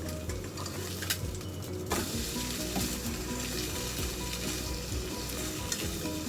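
French toast frying in a pan, sizzling steadily. There is a sharp clack about two seconds in, and the sizzle is louder after it.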